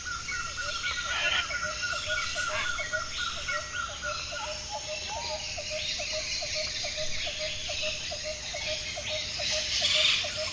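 Tropical forest birds calling. One bird repeats a short high note about five times a second until about four and a half seconds in, while another repeats a lower short note about three to four times a second throughout, over a dense chorus of other calls.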